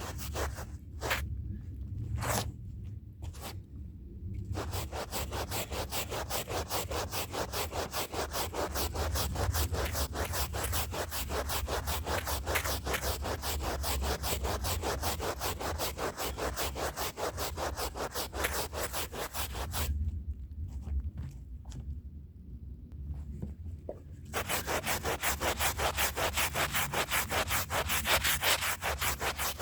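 Hand brush scrubbing a rug, with rapid back-and-forth strokes. A few separate strokes at first, then steady scrubbing that stops for a few seconds past the middle and resumes louder near the end. A steady low hum runs underneath.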